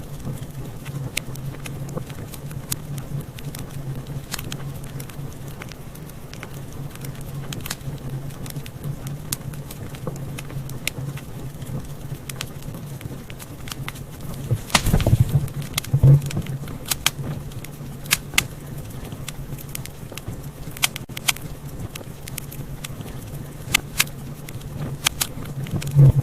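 Wood fire crackling in a fireplace: many small sharp crackles over a steady low rumble, with louder pops about halfway through and a few more near the end.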